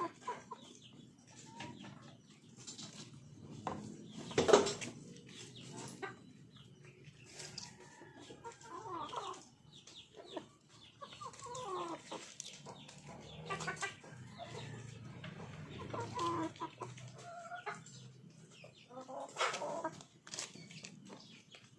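Chickens clucking in short, irregular calls, with one brief, sharp sound about four and a half seconds in, the loudest moment.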